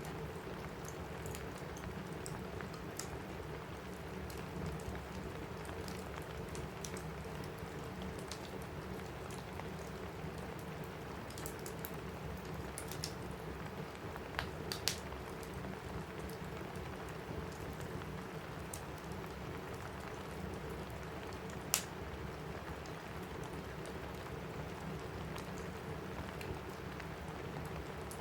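Steady rain on a roof with the scattered sharp crackles and pops of a wood fire in a fireplace; one pop, about three quarters of the way through, stands out louder than the rest.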